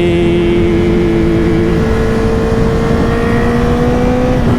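Honda CBR1000RR-R inline-four engine running steadily while riding, its pitch creeping slowly up, over a constant low rush of wind and road noise.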